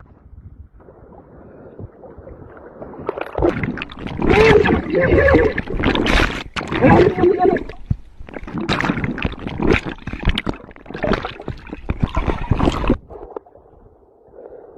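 Loud, raised human voices shouting over water and boat noise, starting a few seconds in and stopping about two seconds before the end.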